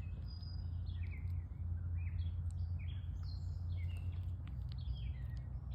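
Wild birds chirping, many short calls in quick succession, over a steady low rumble.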